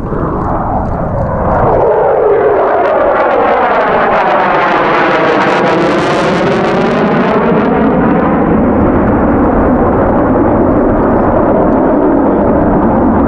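F-22 Raptor's twin turbofan jet engines sounding loud as the jet makes a flyby. The noise swells about a second and a half in and is sharpest around six seconds in, with a sweeping, phasing whoosh as it passes.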